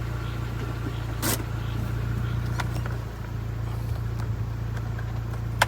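Car engine idling steadily, with a short sharp click about a second in and another near the end.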